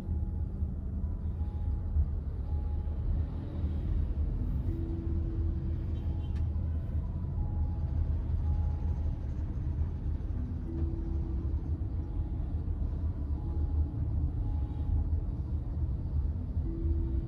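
Steady low rumble of a car being driven, as heard from inside. Faint, soft melodic notes recur every few seconds over it.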